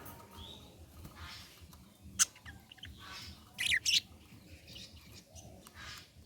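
Budgerigars chirping in short, scattered calls, the loudest a pair of sharp chirps a little past the middle, with a brief sharp click just after two seconds.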